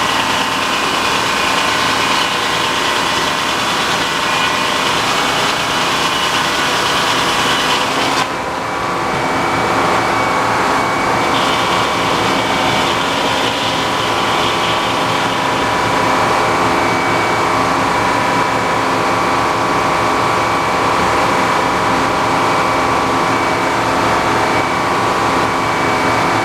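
Tractor engine running steadily, driving a sawmill, with the high hiss of the blade cutting through a log. The cutting hiss stops abruptly about eight seconds in, leaving the engine and the freely spinning mill running steadily with a thin whine.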